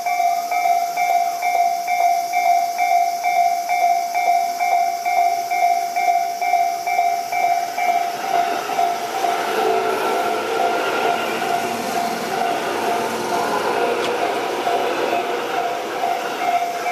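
Japanese level-crossing warning bell dinging steadily at about two to three strikes a second. From about eight seconds in until near the end, a Tobu 8000 series electric train passes over the crossing with the rumble and rattle of its wheels on the rails.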